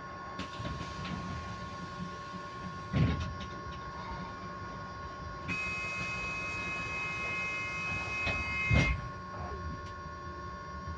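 Electric bus heard from inside the cabin, giving a steady whine that holds one constant pitch, over a low rumble of running. A second, higher tone joins about halfway through and stops shortly before the end. Two loud knocks from the body, one about three seconds in and one near nine seconds.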